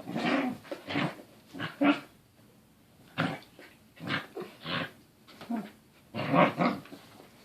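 Corgi making growly, grumbling 'Wookie noises', a run of short vocal bursts with a pause of about a second a little before the middle. These are play vocalisations, not aggression.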